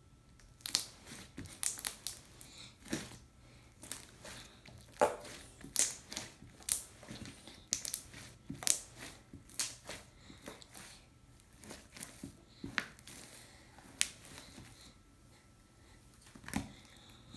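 Stretchy slime being squeezed and stretched by hand, giving irregular crackling and popping clicks, dense through most of the stretch and sparser near the end.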